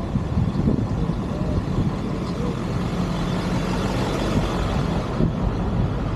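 Motor vehicle driving: steady engine and road rumble with wind noise.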